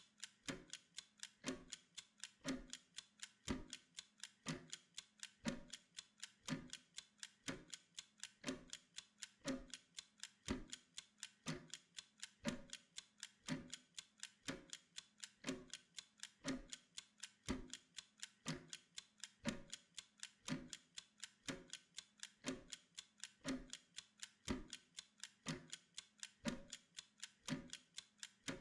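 Mechanical kitchen timer ticking: a fast, even run of sharp ticks, counting down the work period.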